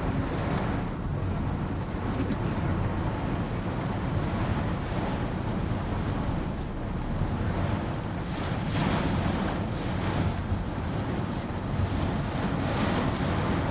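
Steady rushing of wind and rain in a thunderstorm, with wind rumbling on the microphone.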